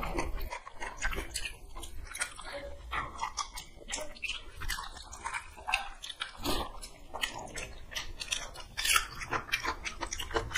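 Close-up chewing and wet mouth smacking of people eating soft rice mixed by hand with dal and poppy-seed paste, with irregular small clicks and smacks.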